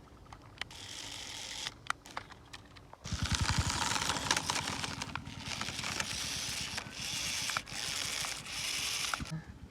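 Small motor and gears of a homemade model loader truck whirring, starting about three seconds in and running in spurts with several brief pauses, after a few light clicks.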